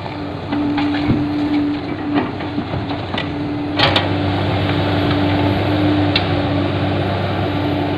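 Heavy diesel machinery running steadily with a constant whine, while an excavator loads a dump truck: several knocks and one louder sharp clash about halfway through.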